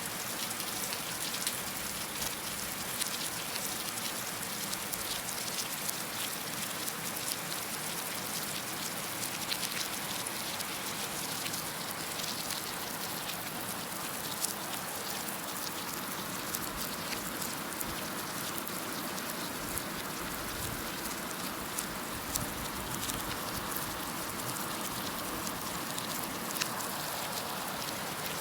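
Heavy rain falling steadily, with many individual drops pattering sharply on a surface over the even hiss of the downpour.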